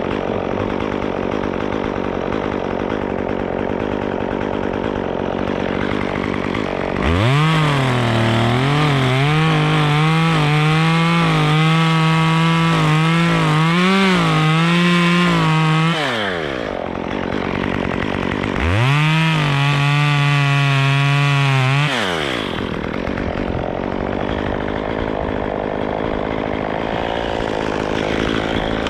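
Two-stroke chainsaw running, revved to full throttle about seven seconds in and held for about nine seconds while cutting wood, its pitch dipping and recovering under load. It drops back, then revs up again for a shorter burst of about three seconds before settling back.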